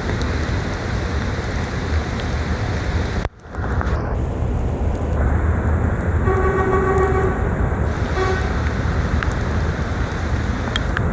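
Steady rush of wind and rain noise on the microphone of a bicycle ridden in heavy rain, briefly cutting out about three seconds in. Past the middle a vehicle horn sounds for about a second and a half, then gives a short second toot.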